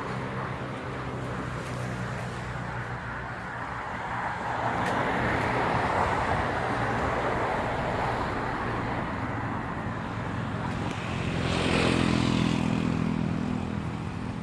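A motor engine running steadily, with a second engine passing close and loudest about twelve seconds in before fading.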